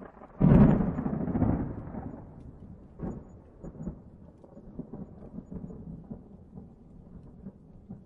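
A thunderclap: a sudden sharp crack about half a second in, then rumbling that slowly fades, with a second, smaller crack about three seconds in.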